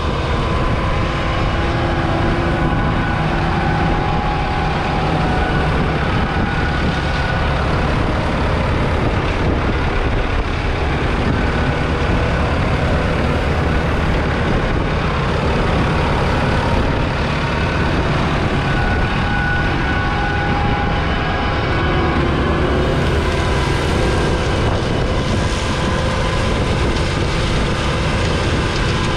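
Massey Ferguson 6715S tractor's 4.9-litre four-cylinder diesel engine running steadily.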